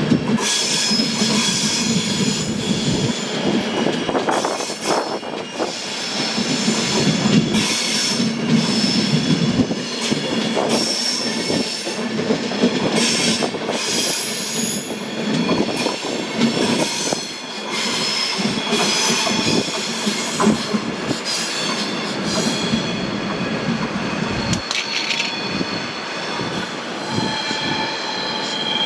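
A train rolling through trackwork, its wheels squealing in high, wavering tones over a steady rumble, with repeated clicks from rail joints and points.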